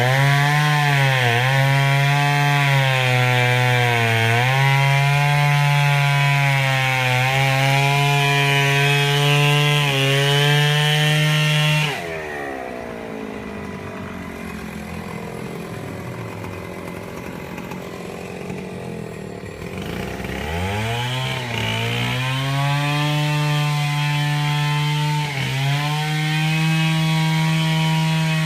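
A small engine running fast with a wavering pitch. About twelve seconds in it drops back to a lower, quieter idle, and around twenty seconds in it revs up again and holds.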